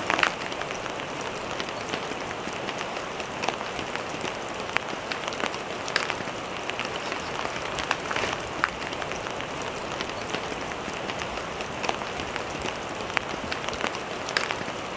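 Steady rain falling, with many separate drops hitting close by as sharp clicks over an even hiss.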